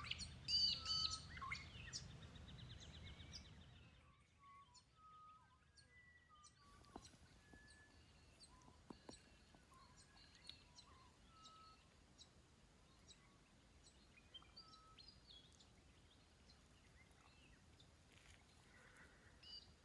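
Wild birds calling, with several chirps and a fast trill in the first few seconds. After a brief drop-out about four seconds in, only faint, scattered chirps remain.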